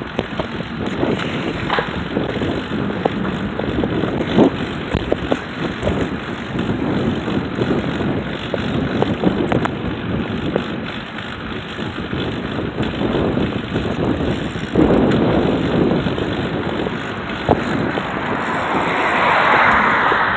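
Wind buffeting the microphone along with rattling and road noise from a bicycle being ridden, with many small knocks and a louder rush near the end.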